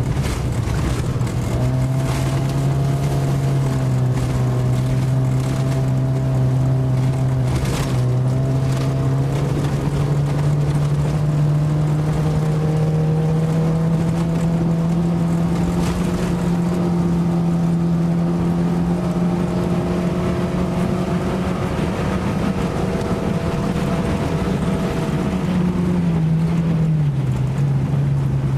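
Race car engine heard from inside the cabin, pulling hard with its pitch slowly climbing for most of the time, then falling near the end.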